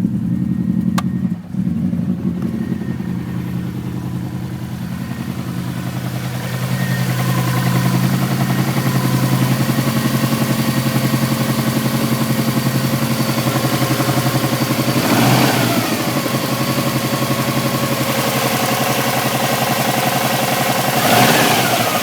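Turbocharged Subaru Impreza flat-four engine running at idle with a rapid, regular knock, revved briefly twice, about 15 and 21 seconds in. The owner tags the knock as a big-end knock.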